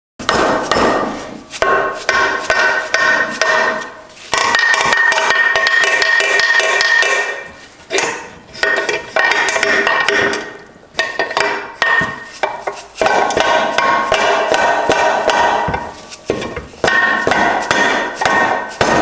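Hammer strikes on the metal parts of a Subaru STI six-speed transmission being knocked apart. The blows come rapidly in runs with short pauses, and the struck metal rings after them.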